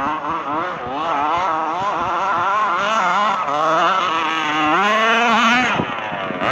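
Small two-stroke gas engine of a 1/5-scale RC truck revving up and down as the throttle is worked, its pitch constantly wavering, with a longer climb that drops away near the end.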